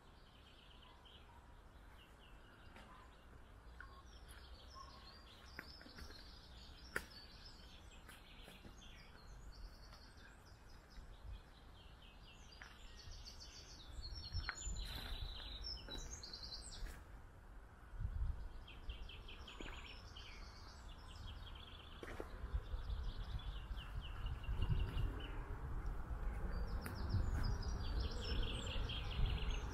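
Songbirds singing, with repeated fast trills and chirps throughout. A low rumble grows louder from about halfway through, with a few sharp clicks.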